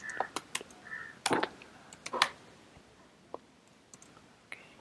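Computer keyboard keys clicking irregularly, several quick taps in the first couple of seconds and then only a few scattered ones.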